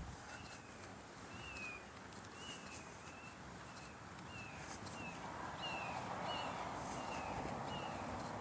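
A bird repeating short, falling chirps about twice a second, over distant road traffic that grows louder in the second half.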